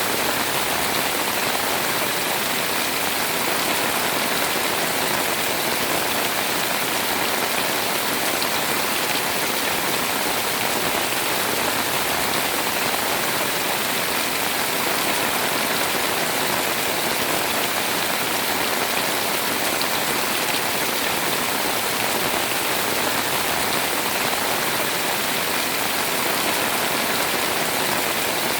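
Heavy rain pouring steadily, a dense, even hiss of countless drops with no let-up.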